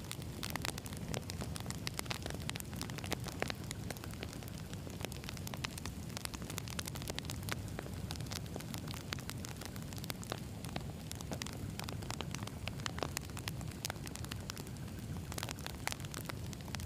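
Wood campfire burning, with a steady low rumble of flame and a constant, irregular crackle and pop of burning logs.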